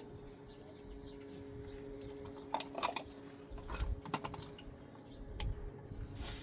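Irregular sharp clicks and taps, several in quick clusters, over a steady low hum.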